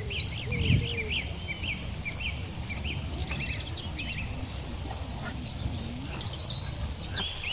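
Several birds calling: quick high chirps and twitters throughout, with a few short lower calls, over a steady low rumble.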